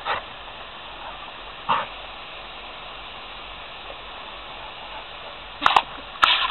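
Steady hiss of water spraying from a hose nozzle, broken by a few short dog barks, two of them close together near the end.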